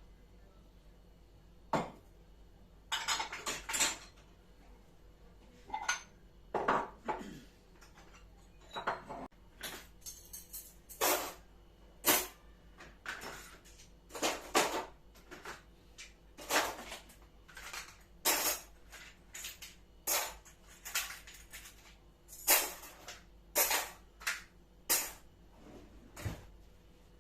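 Dishes and cutlery clinking and clattering as they are handled and set down: a long string of short, sharp knocks, often one or two a second.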